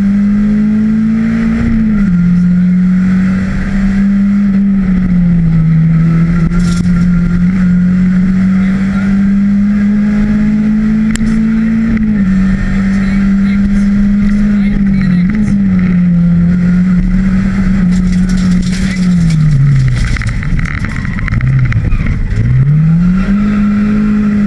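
Seat Ibiza Cupra rally car's engine heard from inside the cabin, driven hard at high revs on a stage. The pitch holds high with short drops at gear changes, sinks low about twenty seconds in as the car slows, then climbs again near the end.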